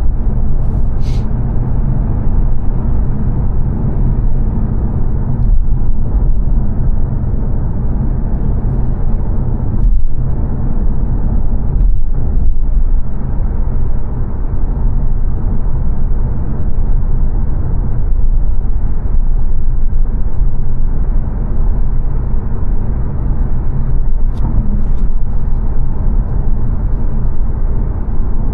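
Steady road and tyre noise heard inside the cabin of a 2022 Mazda 3 saloon cruising on a dual carriageway: a constant low rumble.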